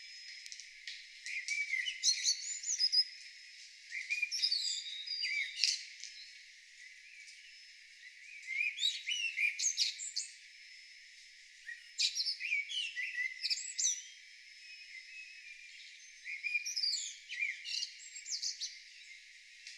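Songbirds singing: bursts of varied, high, twittering song about two seconds long, repeating every few seconds.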